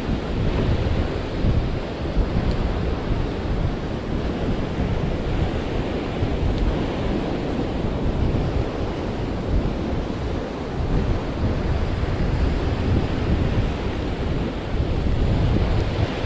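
Wind buffeting the microphone over a steady rush of surf on a beach.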